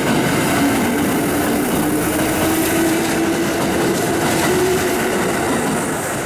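Kintetsu electric train passing close by: a steady rush of wheels on rail with a faint hum that rises slightly in pitch.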